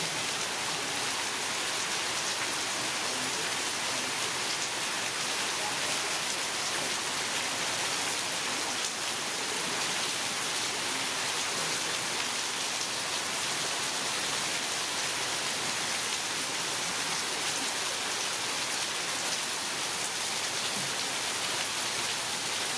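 Heavy rain falling steadily, an even hiss with the patter of drops on surfaces.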